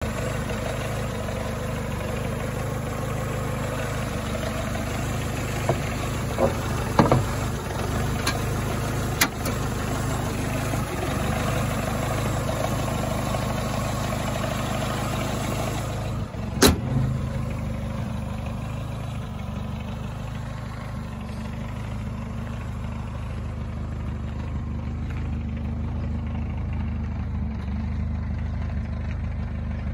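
Carbureted four-cylinder engine of a 1985 Toyota Tercel 4WD wagon idling steadily, with a few light clicks early on. A little over halfway through comes a single sharp bang, the hood being shut, after which the idle sounds duller.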